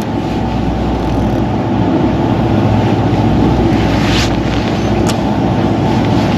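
Steady low rumble of a fishing boat's engine, mixed with wind on the microphone and sea noise, growing slightly louder. Two faint short ticks come about four and five seconds in.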